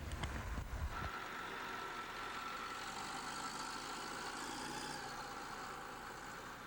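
Vehicle engine noise: a heavy low rumble that cuts off abruptly about a second in, followed by a steady high whine over a hiss.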